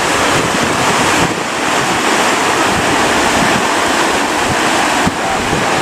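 Big ocean waves breaking and rushing loudly, with strong wind buffeting the microphone.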